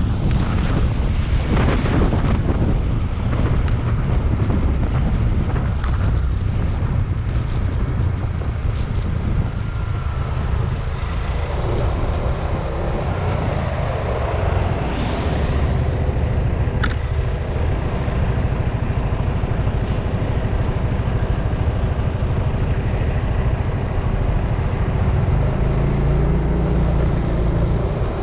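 Riding in road traffic: a steady wind rumble on the microphone over engine and traffic noise. About halfway there is a brief hiss, and a sharp click a moment later.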